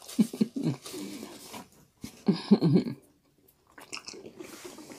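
Close-up chewing of crispy fried chicken, with a few crunchy bites and wet mouth sounds. The sound drops out completely for a moment about three seconds in, then only faint small mouth clicks are left.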